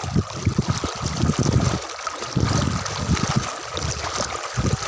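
Irregular low rumbling gusts of wind on the microphone over a steady outdoor hiss, with a faint steady high-pitched whine throughout.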